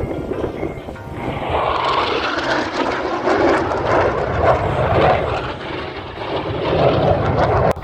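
Airplane flying past: loud engine noise that swells about a second in, holds, and cuts off suddenly near the end.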